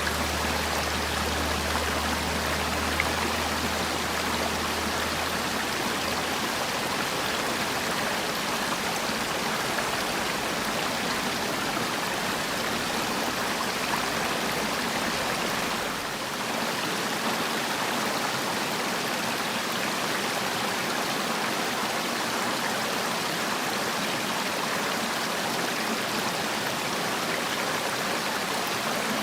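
Valley stream water flowing steadily, an even rushing splash with a brief dip in level about sixteen seconds in.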